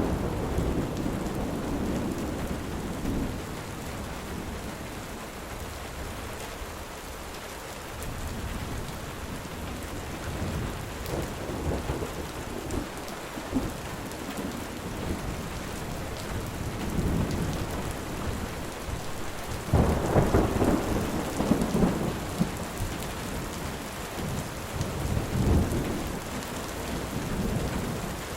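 Steady rain falling with thunder rumbling several times; the loudest, longest rumble comes about two-thirds of the way through.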